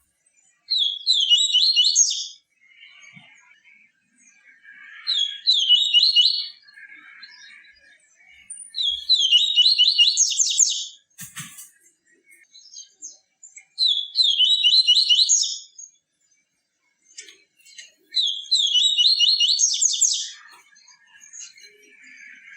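A papa-capim (Sporophila seedeater) singing its 'tui tui viviti' song: five phrases of about a second and a half each, a fast run of high notes repeated about every four seconds, with softer twittering between the phrases. A sharp click about eleven seconds in.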